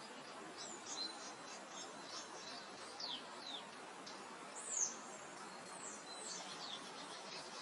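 Small birds chirping over a steady soft wind in open grassland: many short, high, falling notes scattered throughout, the loudest a little under five seconds in.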